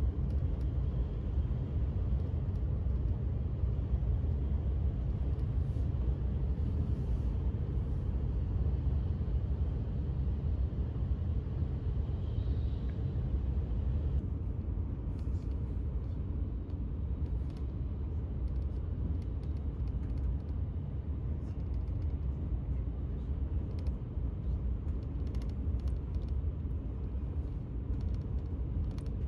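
Steady low rumble of a Shinkansen bullet train running, heard inside the passenger cabin, with a few faint rustles and clicks now and then.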